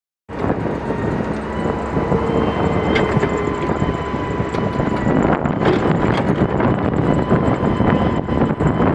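Heavy digging machinery's engine running steadily, with a few scattered clanks.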